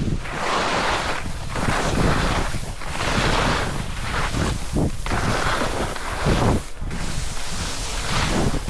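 Wind buffeting a small camera microphone: a steady rushing roar with uneven surges every second or so.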